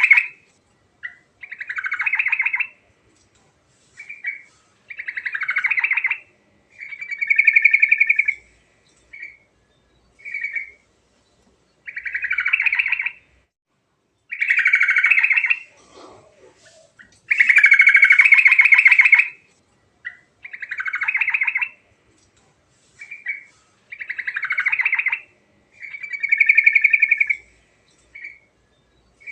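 Yellow-vented bulbul (trucuk) singing: a series of short song phrases, each a second or two long, repeated with brief pauses between them.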